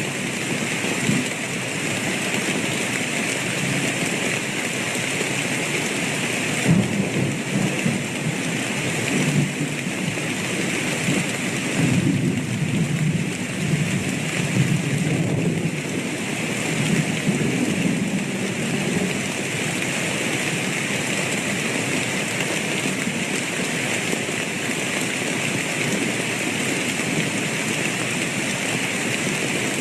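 Steady heavy rainfall with rolling thunder: a long low rumble swells from about a quarter of the way in, peaks several times, and fades out before halfway through the last third, leaving the rain alone.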